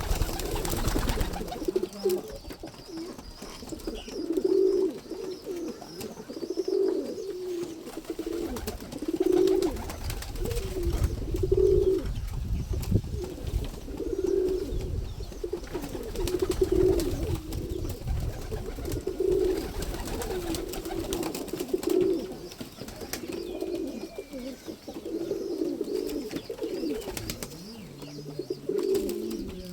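Domestic pigeon cooing, a low coo repeated every two to three seconds, with a low rumble through the middle.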